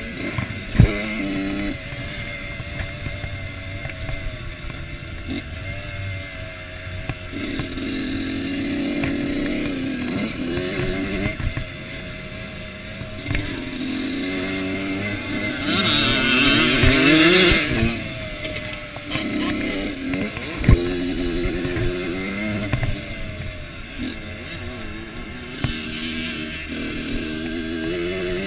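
Kawasaki KX85 two-stroke motocross bike engine revving up and down over and over as the bike accelerates and shifts through its gears. Two sharp knocks, about a second in and again about 21 seconds in, and a burst of hiss around 16 seconds in.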